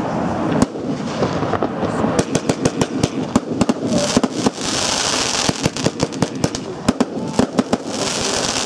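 Röder 'Heron' fireworks cake firing: a rapid, uneven run of sharp bangs as its shots launch and burst, with a stretch of hiss about four seconds in and again near the end.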